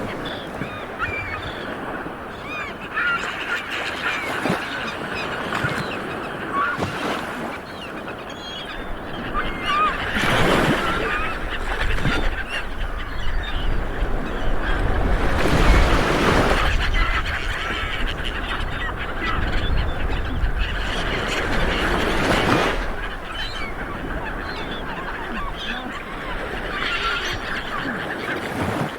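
Small waves washing onto a beach, surging about three times, with many birds calling throughout.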